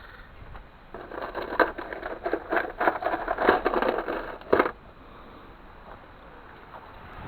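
Hard objects rattling and clattering for about four seconds, starting about a second in, with a few sharp louder knocks near the end.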